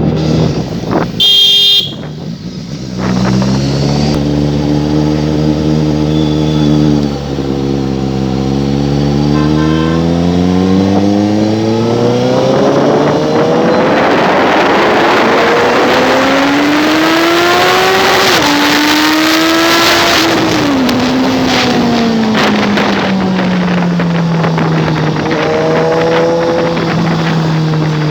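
Suzuki GSX-S750 inline-four engine with a loud exhaust, running at speed: it holds steady, climbs in pitch as it accelerates with one brief dip along the way, then falls back and settles to a steady cruise. Rushing wind and road noise grow louder at the higher speeds, and a short horn beep sounds about a second in.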